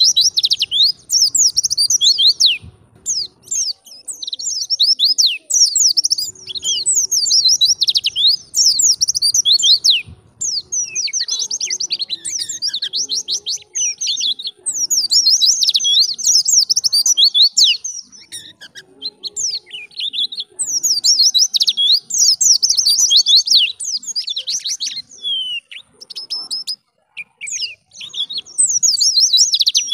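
White-eye (pleci) singing in fast, high-pitched twittering phrases a second or two long, with short pauses between them.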